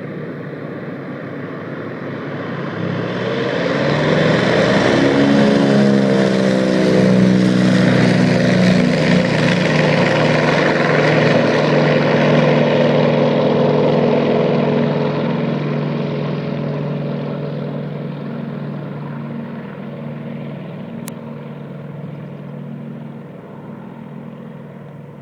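Firefighting water-bomber aircraft going to full throttle on the water to scoop a load: its engine and propeller sound swells and rises in pitch a few seconds in. It holds loud for about ten seconds, then slowly fades.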